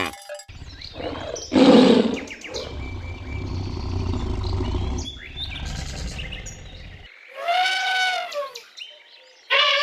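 An animal calling twice in the second half, each call about a second long and rising then falling in pitch, after a stretch of rumbling noise with one loud burst near the start.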